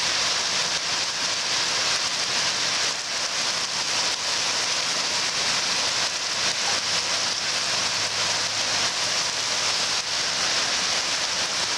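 Heavy rain pouring down hard, a steady dense hiss without a break.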